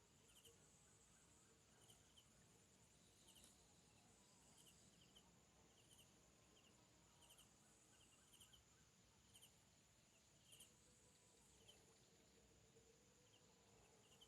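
Faint insect drone, a steady high buzz, with short chirps repeating about once a second.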